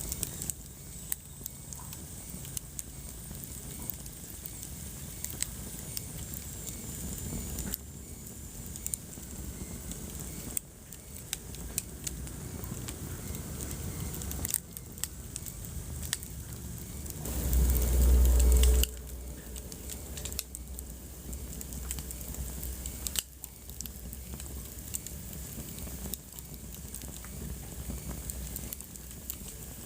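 Wood fire burning in a fireplace, crackling with many sharp pops over a low steady rumble. A little past halfway, a louder, deeper rush lasts just over a second.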